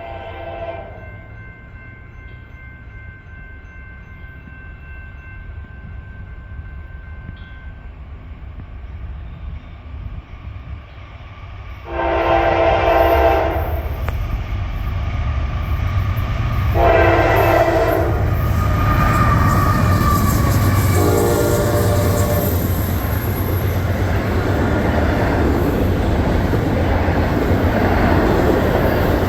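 Norfolk Southern AC44C6M diesel locomotives approaching on an intermodal train, the horn sounding: a short blast at the start, a long blast about twelve seconds in, then two shorter ones. From the long blast on, the engines and rolling wheels make a loud, steady rumble with a high faint squeal above it.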